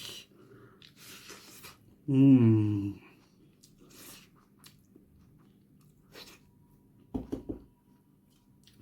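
Close-up chewing and crunching of bone-in yak meat curry with rice, in short separate bites. About two seconds in comes a loud hummed "mmm" of enjoyment, and a few quick knocks follow near the end.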